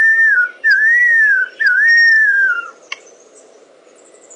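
A bird whistling three long, clear notes in a row, each rising and falling in pitch, ending a little under three seconds in.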